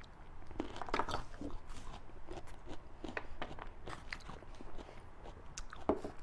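A person chewing fatty beef and bone marrow close to the microphone: irregular short bites, clicks and crunches.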